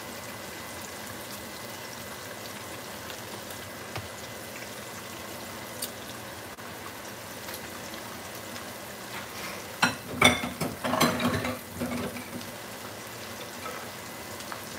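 Pork chops frying in a skillet of oil, a steady sizzle. A short run of knocks and clatter comes about ten seconds in.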